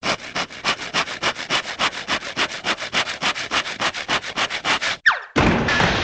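Cartoon sound effect of fast scratchy rubbing strokes, about six a second for roughly five seconds. It cuts to a quick falling whistle, then a dense noisy rush begins near the end.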